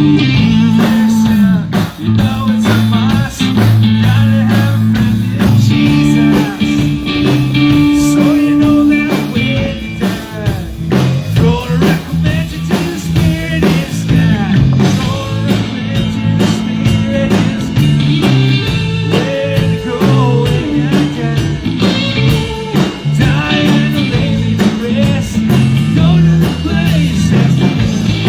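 Live rock band playing a song: electric guitar over a stepping bass line and drums, with singing.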